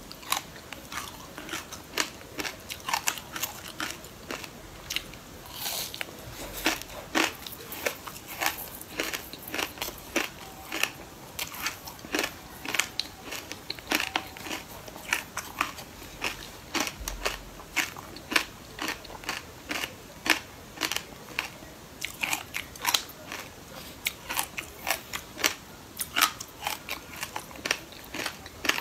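Close-up crunchy chewing of dry seeds: a dense, irregular run of sharp crackling bites, several a second, with fingers digging through a glass bowl of seeds.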